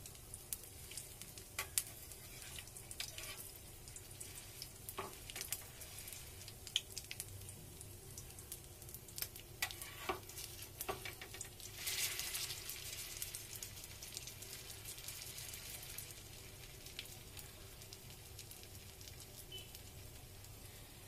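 Batter-coated stuffed bread patty shallow-frying in oil in a flat pan: a steady sizzle with scattered crackling pops. About twelve seconds in the sizzle swells into a louder hiss as the patty is turned onto another side.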